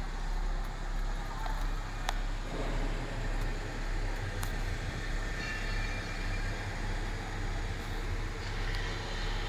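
Isuzu vacuum and jetting sewer-cleaning truck running steadily with a deep, even rumble. There are two sharp clicks in the first half and a faint high whine from about halfway.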